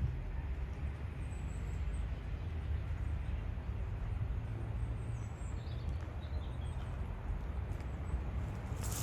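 Outdoor city street ambience: a steady low rumble with a few faint, high bird chirps, about two seconds in and again around five to six seconds in.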